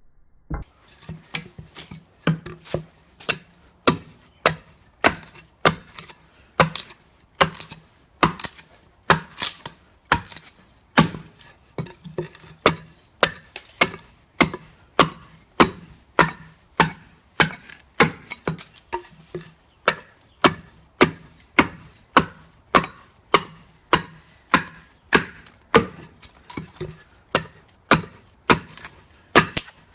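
Wood-carving strokes: a tool chopping into wood, a sharp knock about twice a second, kept up at an even pace.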